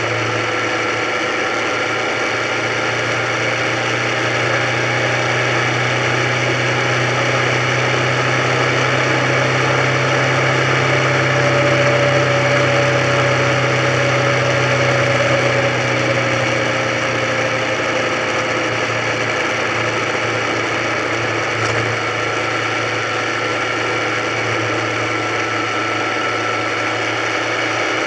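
Motorcycle engine running steadily while cruising, heard from on the bike, with a constant rush of wind and road noise. The engine note rises a little toward the middle and eases back down.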